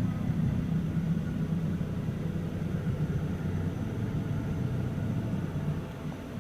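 Steady low rumble of an idling car engine, with no rise or fall.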